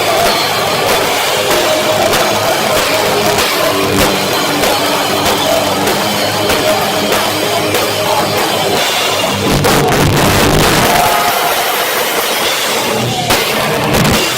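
A live heavy rock band playing loudly, with distorted guitars and a pounding drum kit, recorded through a cheap phone microphone that leaves the sound harsh and distorted. The low end gets heavier about two-thirds of the way through.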